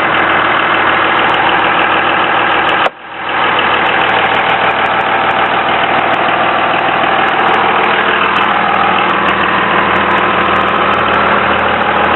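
Cummins 5.9-litre 24-valve high-output turbo diesel inline-six in a 2001 Dodge Ram 2500 idling steadily. The sound drops out briefly about three seconds in, then comes back.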